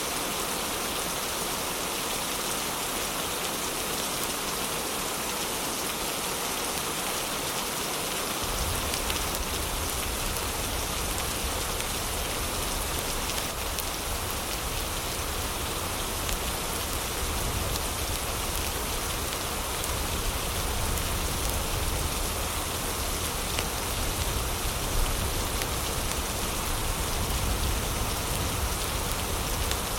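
Heavy rain falling steadily, an even hiss of rain. About eight seconds in a deep low rumble comes in underneath and stays.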